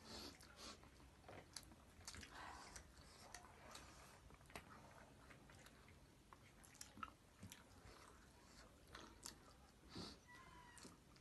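Faint chewing and biting of food, with scattered small mouth clicks and smacks.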